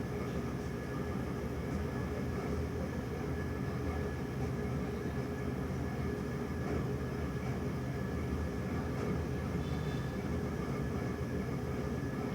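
A steady low rumble with a few faint steady tones over it, unchanging throughout.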